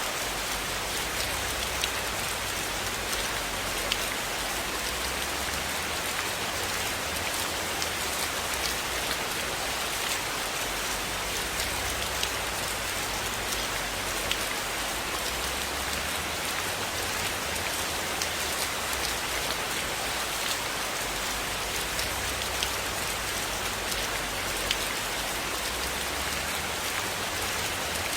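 Steady rain falling, an even hiss with scattered small clicks.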